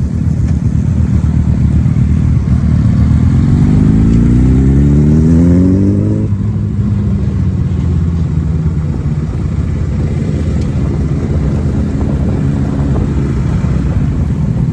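Kawasaki ZX-10R inline-four on its stock exhaust, accelerating: the engine note climbs for a few seconds, then drops abruptly about six seconds in and runs on at a steadier, lower note, over wind noise.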